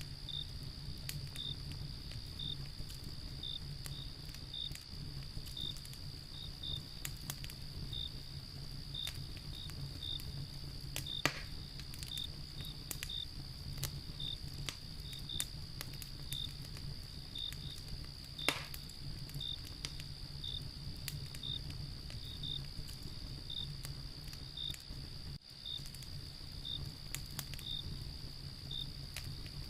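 Wood fire crackling, with a few sharp pops, the loudest about a third and two thirds of the way in. Under it crickets chirp steadily, about two chirps a second over a continuous high trill.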